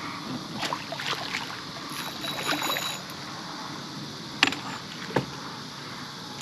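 Water splashing beside a boat as a hooked small gar is netted, with two sharp knocks a little after the middle.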